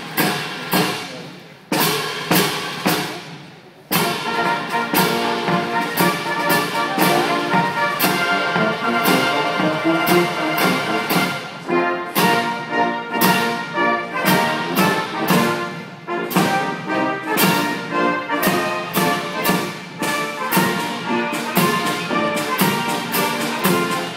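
A quick ripple of sharp blank-rifle reports, about three a second, running down the ranks in a feu de joie for the first four seconds. Then a military brass band plays, with sharp percussive strokes through the music.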